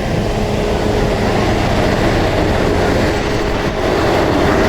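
CT273 steam-hauled train running along the track: a steady, loud rumble and rush of wheels and machinery.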